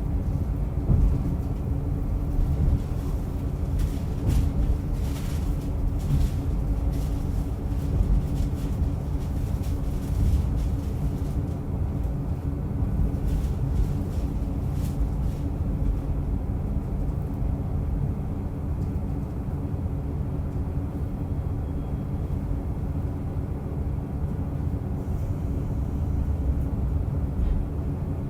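Onboard running sound of a diesel railcar: a steady drone of engine and wheels on the rails, with light clicks over the first half.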